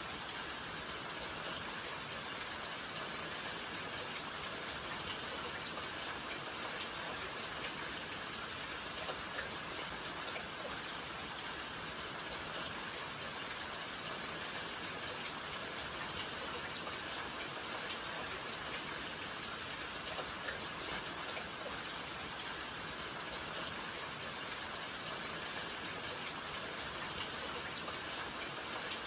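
Steady rainfall, an even hiss of drops with many small patters of raindrops on surfaces.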